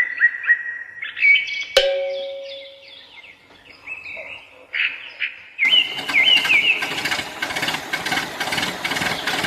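Birds chirping, with a single bell-like ding about two seconds in. A loud rushing noise comes in suddenly about halfway through and runs under the chirps.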